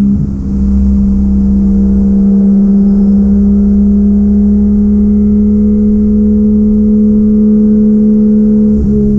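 Swapped 1JZ-GTE VVTi turbocharged straight-six in a Nissan 240SX S13 running under way, a loud steady drone held at one pitch, which wavers briefly just after the start and again near the end.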